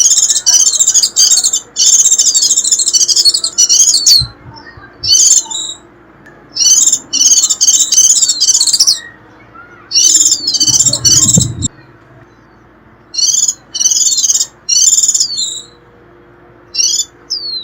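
White-eye giving its shrill, twittering 'rít' call: quick high-pitched chattering phrases of half a second to two seconds, repeated with short gaps. This is the call played to lure wild white-eyes in. A brief low rumble comes a little past halfway.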